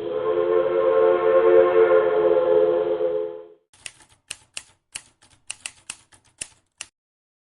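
A train horn holding a steady multi-tone chord, which stops abruptly about three and a half seconds in. Then a quick, uneven run of about a dozen sharp clicks like typewriter keys.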